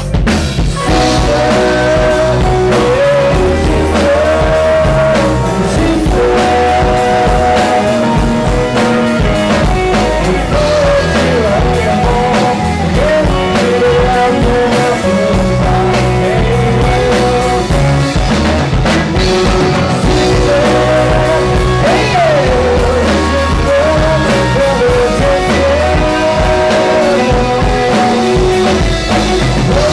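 Rock band playing a song: steady drums, bass and electric guitars, with a wavering melody line over them.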